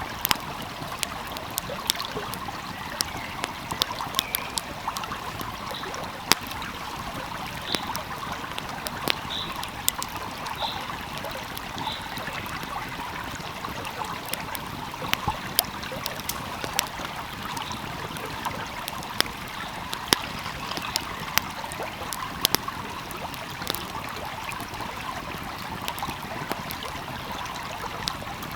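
Wood fire crackling, with sharp pops at irregular moments, over the steady rushing of a flowing stream.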